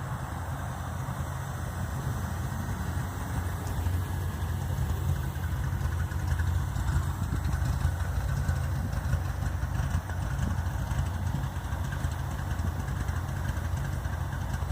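Car engine idling through a new exhaust with a rough, uneven low note, which the owner can't place as either cam chop or a misfire.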